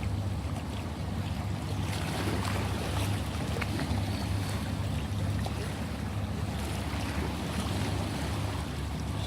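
Ocean waves washing in steadily, with a deep low rumble and small crackles of water.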